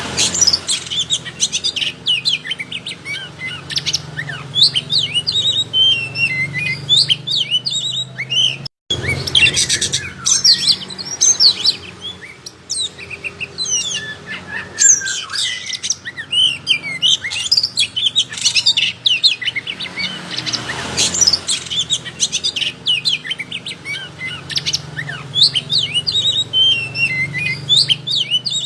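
Oriental magpie-robin (kacer) singing without pause in a fast, varied run of chirps and whistles, over a low steady hum, with a brief silent break about nine seconds in.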